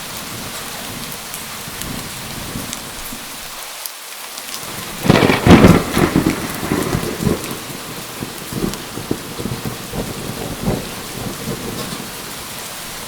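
Steady heavy rain with a loud thunderclap about five seconds in, rumbling on in irregular peals that fade over the next several seconds.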